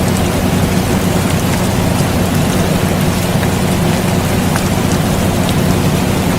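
Steady rain with scattered drop ticks, layered over the constant low hum of an air conditioner running.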